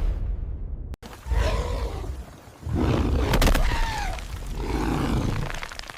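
A low rumble cuts off about a second in, followed by two long monster roars with falling pitch, a creature sound effect from the film.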